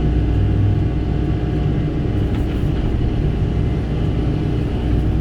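Kobelco SK85 excavator's diesel engine running steadily under work, a constant low rumble.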